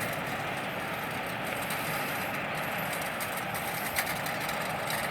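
Steady running noise of a metre-gauge train, with one sharp click about four seconds in.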